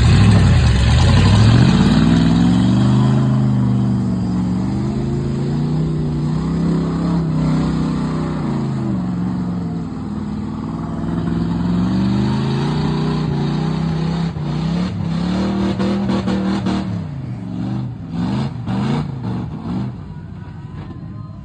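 Ford mud truck's engine revving, its pitch rising and falling again and again as it drives through mud, with a loud rushing noise over the first few seconds. Near the end the engine drops lower and runs more unevenly.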